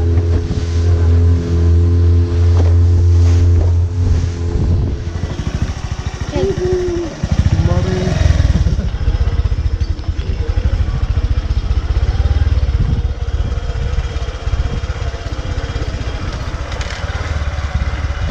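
Motorcycle engine running on the move, a steady hum for the first few seconds, then a rougher low rumble from about seven seconds in.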